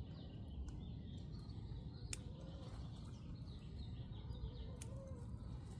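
Faint birds chirping over a low rumble of outdoor background noise, with two sharp clicks, about two and five seconds in.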